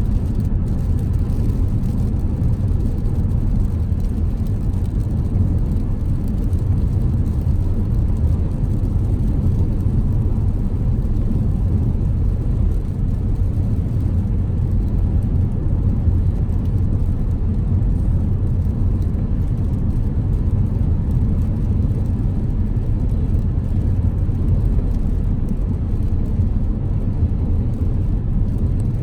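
Car driving at steady speed: a constant low rumble of road and engine noise.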